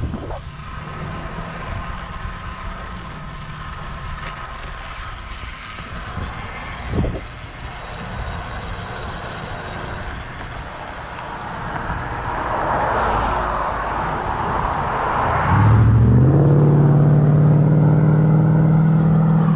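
Wind and road noise while cycling, then a motor vehicle coming close: its tyre noise swells, and in the last four seconds a loud, steady engine hum takes over.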